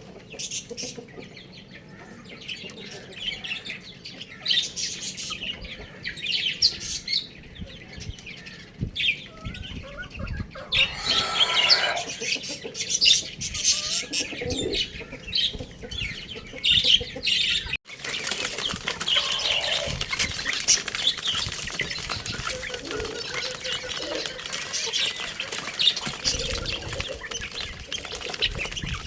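Chickens and chicks moving about: many short high chirps with wing flutters, and a louder call about eleven seconds in.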